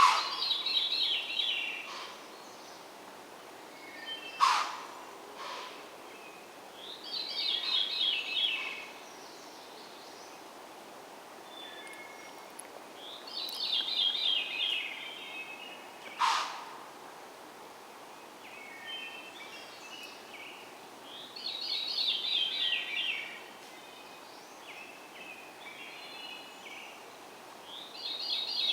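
A songbird singing the same short phrase of quick descending notes about every seven seconds, five times in all. Two sharp sudden cracks, the loudest sounds, come between the phrases, over a steady outdoor hiss.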